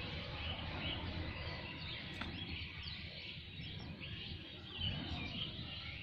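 Faint, scattered short bird chirps over steady outdoor background noise.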